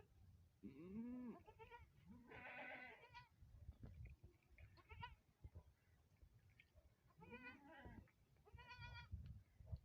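A farm animal bleating repeatedly, about six wavering calls of a second or less, over a low rumble.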